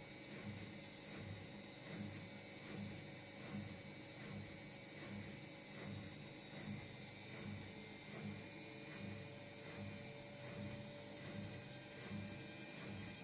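Indesit washing machine running in its diagnostic test mode: a steady high motor whine that slowly rises in pitch, over a low rhythmic pulsing about twice a second.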